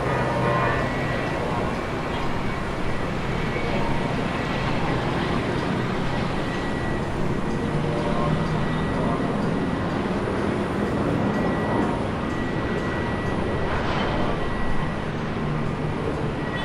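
Jet engines of a Scoot Boeing 787-9 airliner, a steady loud rush with a thin high whine over it.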